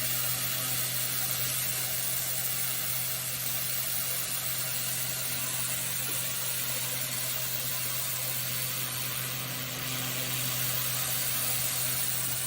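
Pressure washer spraying a street surface: a steady hiss of the high-pressure water over the constant hum of the machine's running motor and pump.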